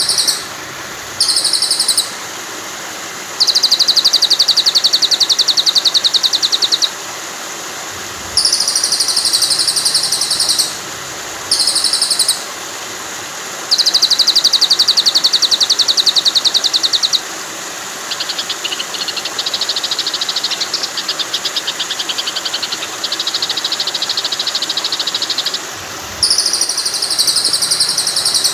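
Recorded songbird songs mixed with the steady hiss of running water, as a tutor track for teaching a white-rumped shama new song. The birds give rapid, buzzy, high-pitched trills in repeated bursts of one to three seconds with short pauses between, and a softer, more broken trill about two thirds of the way in.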